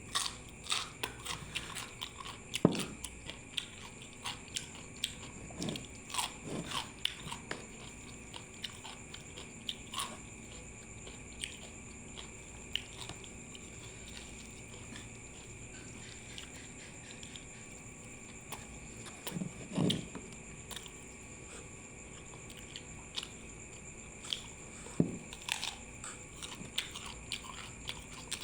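Close-up eating sounds: chewing with wet clicks and crunchy bites, louder in scattered bursts, from a mouthful of steamed chicken and raw vegetables.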